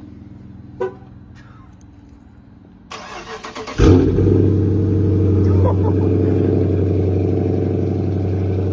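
Dodge R/T's 5.7-litre HEMI V8, freshly fitted with an MBRP cat-back exhaust, cranks for about a second near three seconds in, then catches with a loud flare and settles into a steady, deep idle. A single click is heard about a second in.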